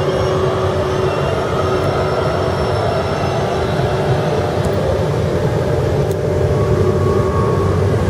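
ETR 463 Pendolino electric train departing, its cars rolling past close by with a steady rumble and a few steady humming tones over it.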